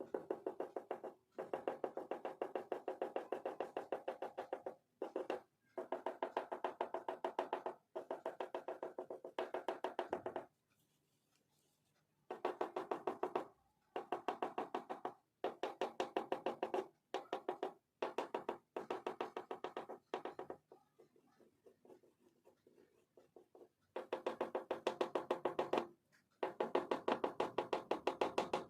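Fast back-and-forth strokes of an oil pastel rubbing on paper, in bursts of two to four seconds with short pauses between them.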